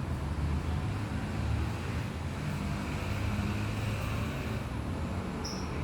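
Steady low rumbling background noise, with one short high chirp near the end.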